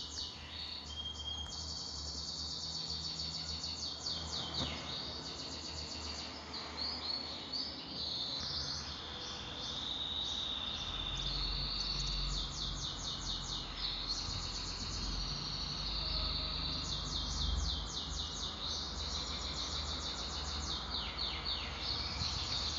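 Small birds chirping in fast high trills that come again every second or two, over a low steady hum.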